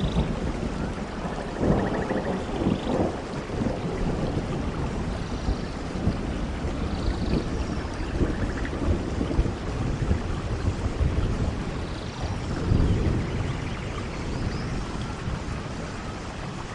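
Steady rain falling, with low rumbles that swell and fade a few times.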